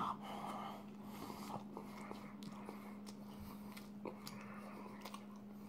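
A bite into a Big Mac followed by quiet chewing: faint, soft mouth sounds and small clicks over a steady low hum.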